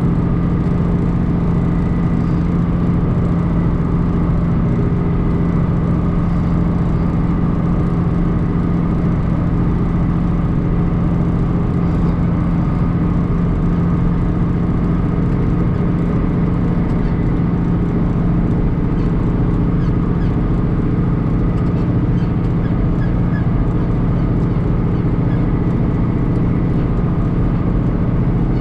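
John Deere 2940 tractor's six-cylinder diesel engine running steadily under load while pulling a rotary hay rake, a constant loud drone with a strong low hum.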